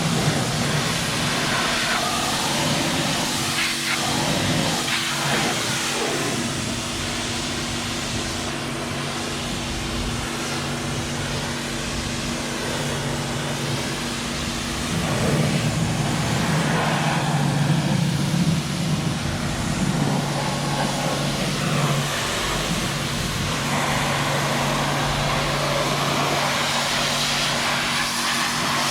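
Tractor engine running with a steady drone, a little louder for several seconds past the middle.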